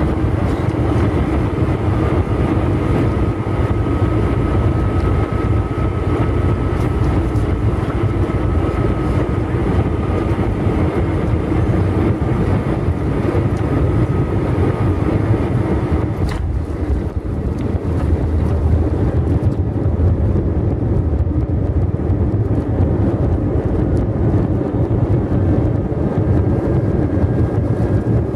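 Airbus A321 cabin noise heard from a window seat near the wing: the steady rush of jet engines and airflow, with a faint steady whine over the first third. A single sharp knock comes about sixteen seconds in, after which the hiss is a little duller.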